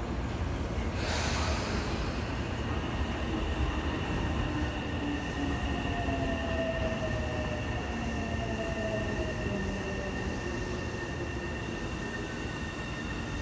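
Tokyo Metro 7000 series train pulling into the platform and braking: a steady low rumble of wheels on rail with two high, steady squeals, and a whine that falls in pitch about five to nine seconds in as it slows.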